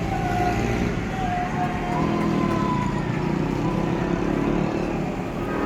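Steady din of a New Year fireworks display, with short whistling tones over it and no distinct bangs.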